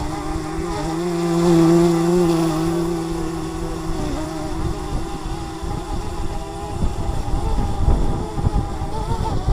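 DJI Mavic Mini's propellers humming as it hovers in strong wind, the pitch wavering and swelling louder about a second in. Wind buffets the microphone with a gusty rumble, heavier in the second half.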